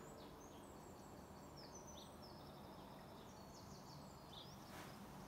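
Near silence: quiet room tone with faint, scattered high chirps of birdsong.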